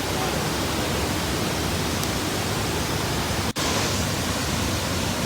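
Waterfall rushing: a loud, steady wash of falling water, cut off for a split second about three and a half seconds in.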